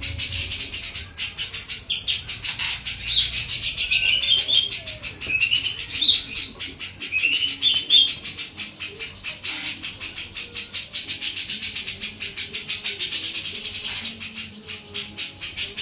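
Cucak jenggot (grey-cheeked bulbul) singing hard: a fast, unbroken chattering rattle with runs of high whistled chirps in the first half.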